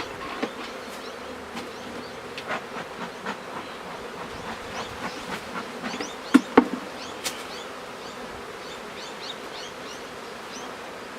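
Honeybees buzzing around an open hive box, a steady hum with scattered light ticks, and two sharper knocks about six seconds in.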